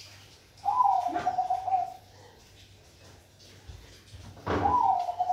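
Zebra dove (Bangkok perkutut) cooing: two long, trilling calls, each starting a little higher and settling onto a steady pitch. One comes near the start and the other about four and a half seconds in, preceded by a low thump.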